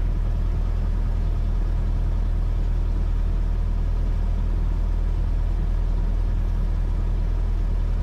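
Cessna 172S's four-cylinder Lycoming engine idling steadily on the ground, a constant low drone heard from inside the cabin.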